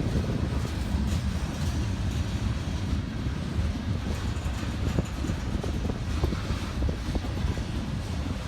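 Freight train rolling past: a steady low rumble of the cars, with scattered sharp clicks from the wheels on the rails.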